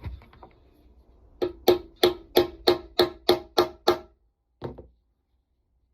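A hammer striking a metal hole punch to cut a grommet hole through a taped nylon flag. There are about nine ringing metal blows at roughly three a second, followed by two lighter taps.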